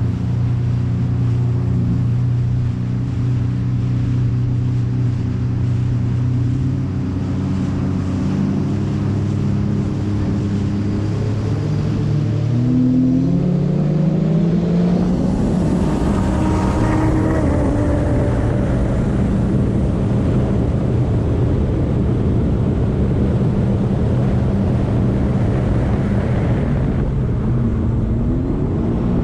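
Sea-Doo RXT-X 300 jet ski's supercharged three-cylinder Rotax engine running steadily at low speed, then accelerating hard about twelve seconds in, its pitch climbing over a few seconds. It then runs at speed under a rush of water and wind, and its pitch rises again near the end.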